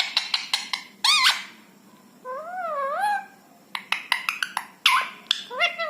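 Indian ringneck parrot vocalizing: runs of sharp clicks, a short squawk with a bending pitch about a second in, a wavering whistle-like call in the middle, then more clicks and another call near the end.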